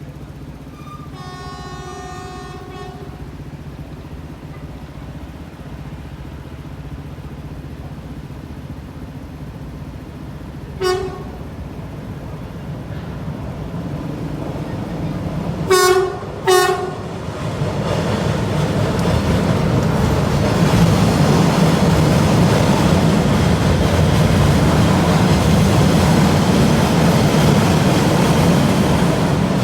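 Train horn sounding as a diesel train approaches: one long blast about a second in, a short one near the middle, then two short, loud blasts close together. The train then passes, its running building into a loud, steady rumble.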